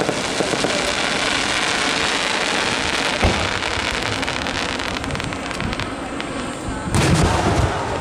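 Aerial fireworks crackling densely, like rain, with a single sharp bang about three seconds in and a louder, deeper shell burst near the end.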